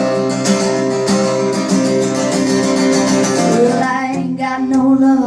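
Music: an acoustic guitar strumming chords in a song, in a break between sung lines.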